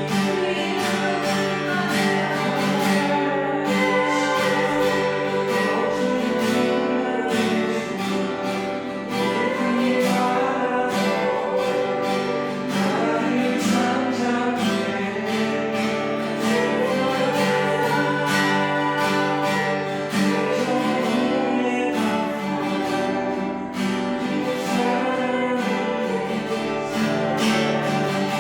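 Worship song: voices singing over a strummed acoustic guitar.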